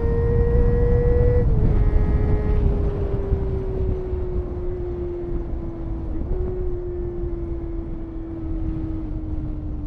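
Honda CBR250RR MC22's inline-four engine screaming at high revs, the pitch climbing briefly and then easing slowly down over several seconds, with short dips about a second and a half in and again around six seconds in. Heavy wind rush on the microphone at speed.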